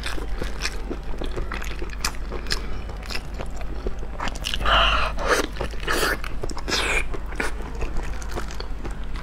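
Close-up biting and chewing of braised pig ear, with a crunch from the cartilage. Many sharp crunches and clicks come in quick succession, louder and denser around the middle.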